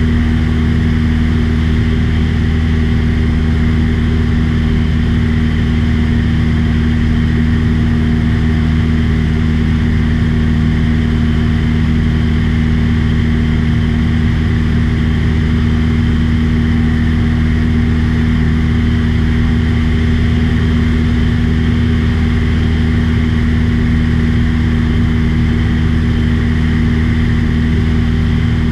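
Small aircraft's engine and propeller running steadily in level flight, an unbroken drone with a low fixed pitch.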